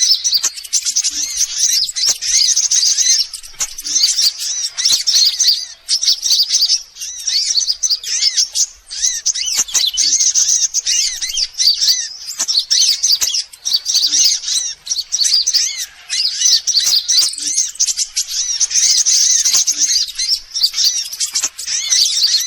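Sunbird lure call: dense, high-pitched, fast chirping and twittering in phrases of a few seconds with short breaks between them, played to draw sunbirds in.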